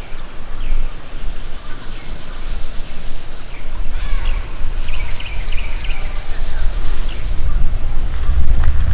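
Wild birds chirping and calling, with two stretches of a fast, high trill, over a steady low rumble.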